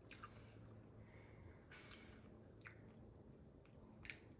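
Faint, wet mouth sounds of someone chewing and eating prawns in sauce: a few short lip smacks and clicks, the loudest near the end.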